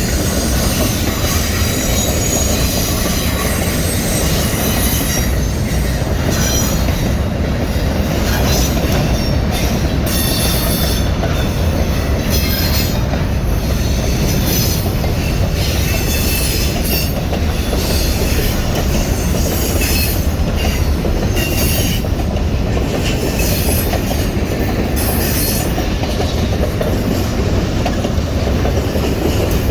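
Train rolling along the track with a steady, loud rumble and irregular clanks and rattles from the wheels and cars.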